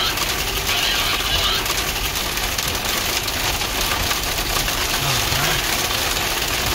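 Heavy rain mixed with hail pattering hard and steadily on a Jeep Wrangler's roof and windshield, heard from inside the cab, with the engine running underneath.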